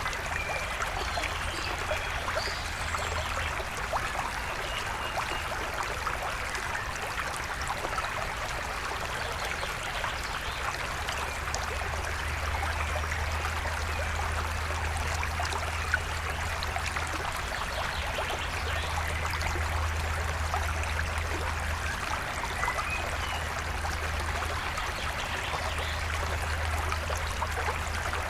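Forest stream flowing and trickling steadily over rocks, with a low rumble that swells and eases. A few faint bird chirps sound above the water.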